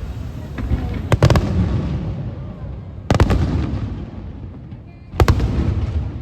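Aerial fireworks shells bursting: three loud bangs about two seconds apart, the first and last each a quick cluster of cracks, with a low rumble of echoes between them.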